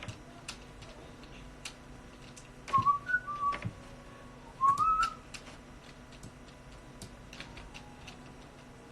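A person whistling a few short notes, then one note sliding upward. Faint scattered clicks sound throughout.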